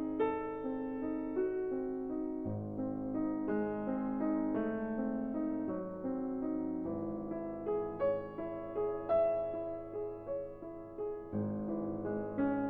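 Background piano music: a gentle melody of separate notes over sustained bass notes.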